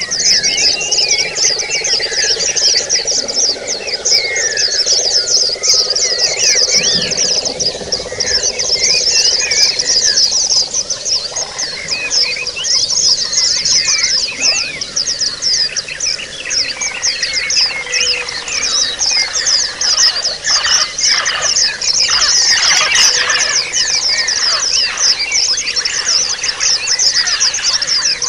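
A flock of white-eyes (pleci) chirping and twittering together in a dense, continuous chorus of rapid high calls.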